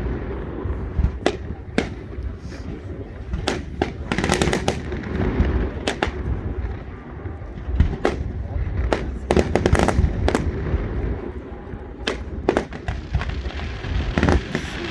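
Fireworks display: aerial shells bursting with sharp bangs and crackles, some in quick clusters, over a low rolling rumble of echoes.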